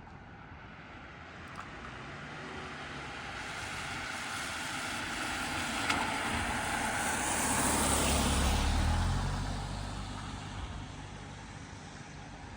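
A motor vehicle approaching and passing on a rain-wet road, its tyre hiss and engine growing to loudest about eight seconds in, then fading away.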